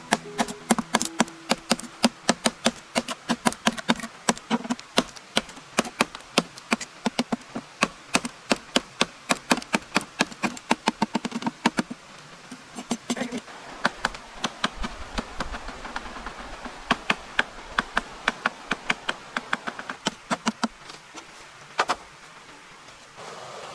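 Rapid hammer blows, about three to four a second, with a short break about halfway and fewer, spaced-out blows near the end.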